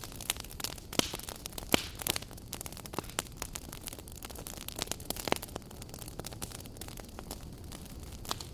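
Wood fire burning in a fireplace, crackling with irregular sharp pops over a steady low rumble; the loudest pops come about one and nearly two seconds in.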